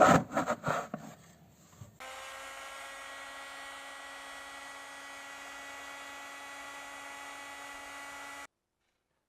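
A few rough scraping or rasping strokes that die away about a second in, then a steady, even hum from a small electric motor starting about two seconds in and cutting off abruptly near the end.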